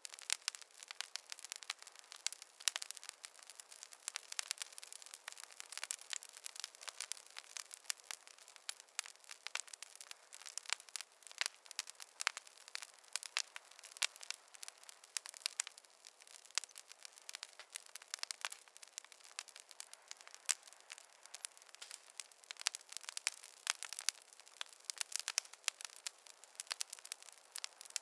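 Campfire crackling: a steady run of small, irregular pops and snaps, light and thin, with no low roar of flame.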